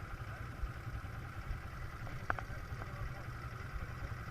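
Quad bike engine running steadily under a low rumble, with one short click a little past halfway.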